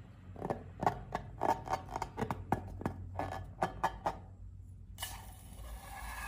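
A run of quick, irregular sharp clicks and pops from slime and balloons being handled, then a sudden steady hiss starting about five seconds in.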